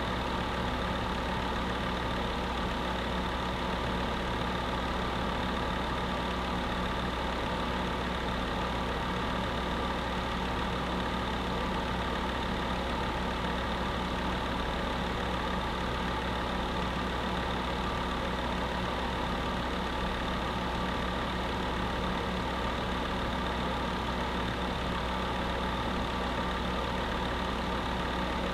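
Electric space heater running: a steady fan whir with a constant hum, unchanging throughout.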